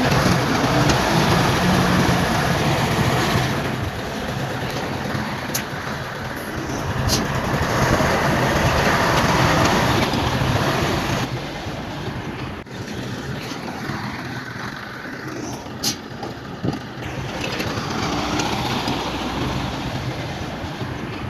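Bulldozer's diesel engine running, with a few sharp metallic clanks, its level dropping and rising again a few times.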